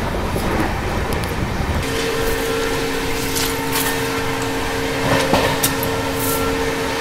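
Passenger train running on the rails, heard from on board, with scattered sharp clicks from the wheels and track. About two seconds in, a steady two-note tone starts and holds for about five seconds.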